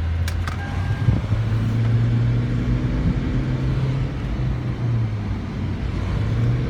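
Car engine and road noise heard from inside the cabin while driving: a steady low drone that drifts slightly up and down in pitch, with a couple of faint clicks about half a second in.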